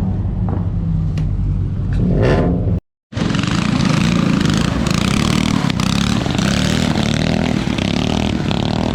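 Car engines running and revving, one rising in pitch about two seconds in. After a brief cut, a louder, rougher stretch of engine noise with a heavy hiss follows.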